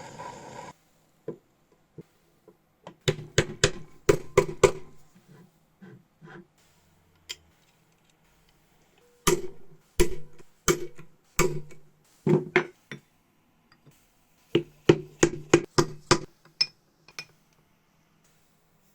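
A hammer striking a metal part in three bursts of sharp knocks, each strike with the same short low ring.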